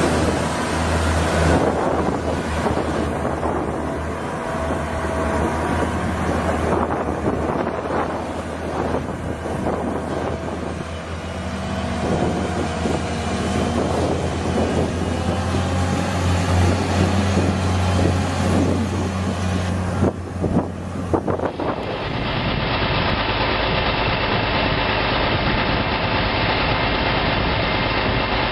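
Tractor engines running, with wind on the microphone and a few knocks late on. About three-quarters of the way in, the sound cuts abruptly to a different, steadier engine note, like an engine idling.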